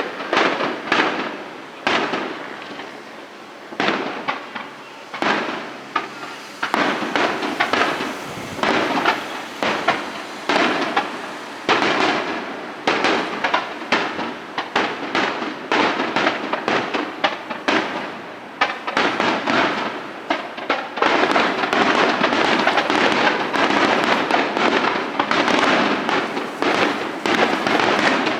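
Fireworks display: aerial shells bursting one after another, with sharp bangs and crackling. About three-quarters of the way in, the bursts merge into a dense, continuous barrage.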